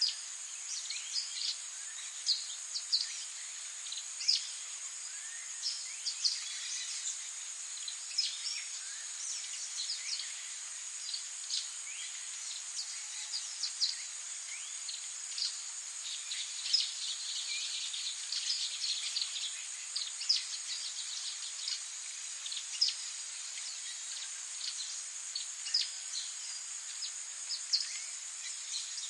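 Songbirds chirping in many short, quick calls and snatches of song, over a steady high-pitched insect drone.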